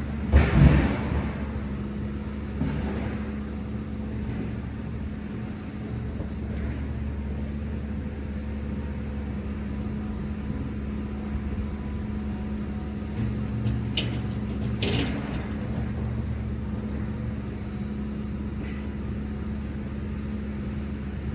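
Truck engine running with a steady low drone, heard from the cab. There is a thump just after the start and a couple of light clicks about two thirds of the way through.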